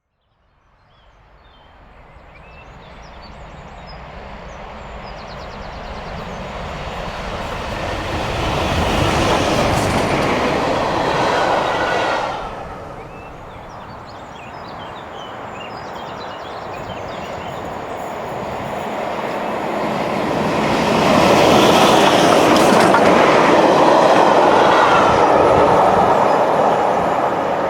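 Two LMS Jubilee class three-cylinder 4-6-0 steam locomotives running coupled together as a light engine movement, approaching and passing with the rumble and clatter of their wheels on the rails. The noise builds from nothing, drops briefly about halfway, then rises again to its loudest.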